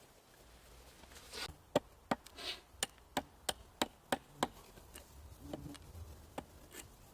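A blade chopping into wood: a quick run of about nine sharp strikes, roughly three a second, lasting about three seconds, then a few fainter knocks. It fits cutting wood to make a simple camp pot hanger.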